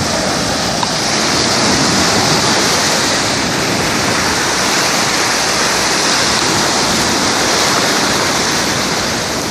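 Sea waves washing onto the shore: a steady, continuous rushing.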